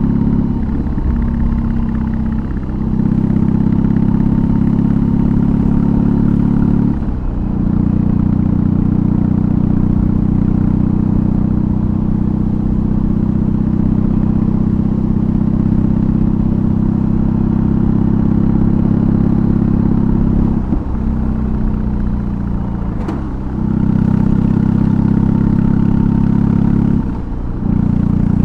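2022 BMW R18's 1802 cc boxer twin, with a custom exhaust, running steadily under way. The engine note dips briefly a few seconds in and about seven seconds in, sags for a couple of seconds about two-thirds of the way through, and dips again near the end.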